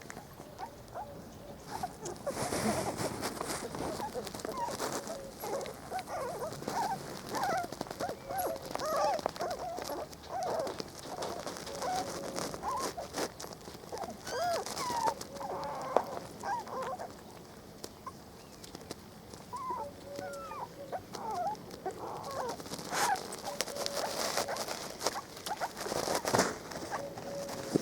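Young Spanish Water Dog puppies whimpering and squeaking: many short, high squeals overlapping, with a quieter stretch partway through.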